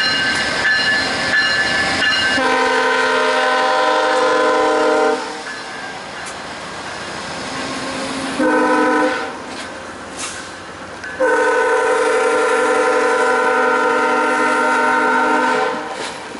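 VIA Rail P42 locomotive's horn sounding the grade-crossing signal: a long blast, a short one, then a long one. Crossing bells ring in the first two seconds, over the steady hiss of heavy rain.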